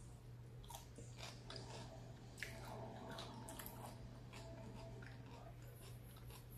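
Close-up chewing and biting of a fish taco with shredded red cabbage: many short, sharp wet mouth clicks and smacks.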